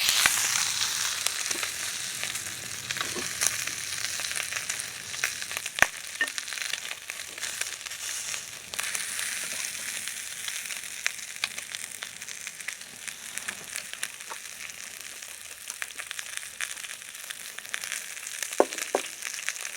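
Pork sizzling over a wood campfire: a steady frying hiss with scattered sharp pops and crackles, loudest at the start and easing slightly after a few seconds.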